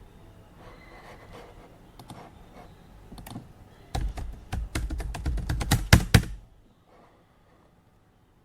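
Typing on a computer keyboard: light, scattered keystrokes, then a fast, louder run of keystrokes about four seconds in that stops abruptly about two seconds later.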